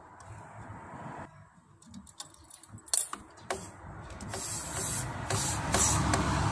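Clicks and scraping of hand tools working on a refrigerator's refrigerant pipe as the joint is pulled open, getting louder and rougher in the last few seconds.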